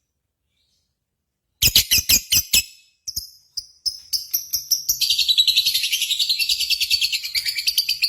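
Lovebird song beginning about one and a half seconds in with a quick run of sharp chirps, then a few broken notes, then from about five seconds in a long, fast, even trilling chatter, the 'ngekek' song that lovebird keepers prize in contests.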